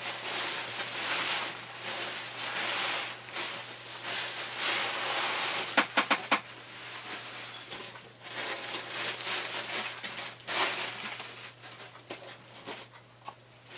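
Packaging rustling and crinkling in irregular bursts as items in a box are handled, with a few sharp clicks about six seconds in.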